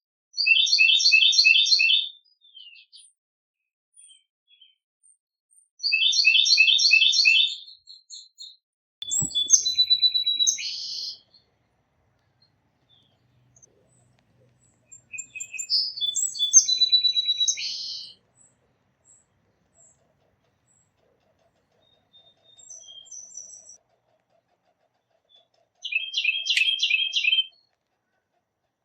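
A songbird singing short phrases of rapid repeated chirping notes, one phrase every few seconds, with quiet gaps between.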